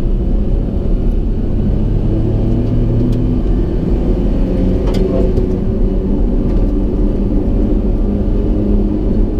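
Inside the cab of a 2000 Suzuki Carry mini truck on the move: a steady low rumble of its small engine, mixed with tyre and road noise from big off-road radial tyres on soft gravel. There is a sharp click about five seconds in.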